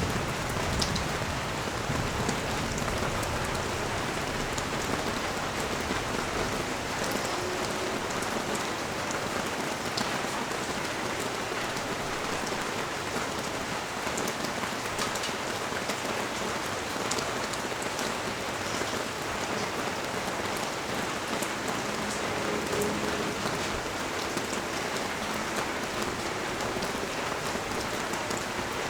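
Steady rain falling on the street and nearby surfaces, an even hiss with scattered sharp ticks of single drops striking close by.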